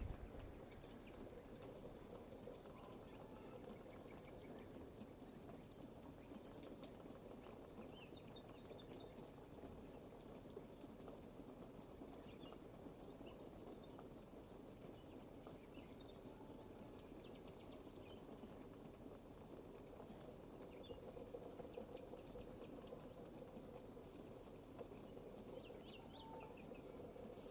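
Steady, quiet rainfall with scattered drip ticks, and faint short bird chirps now and then, a few more near the end.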